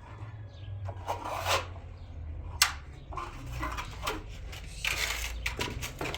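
Irregular clicks, knocks and rubbing of objects being handled, with one sharp knock about two and a half seconds in, over a low rumble.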